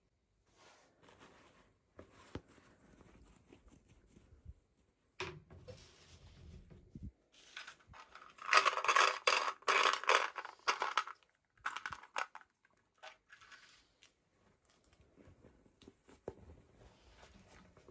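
Toy packaging being handled and opened: crinkling and rustling, loudest for about three seconds near the middle, with light clicks and taps around it.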